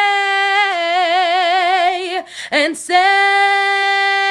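A solo female voice singing a cappella, holding a long note with vibrato. After a short break about two and a half seconds in, she holds another long, steady note.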